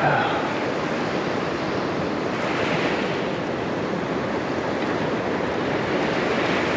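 Gulf surf breaking and washing up the beach in a steady rush that swells twice, with wind on the microphone.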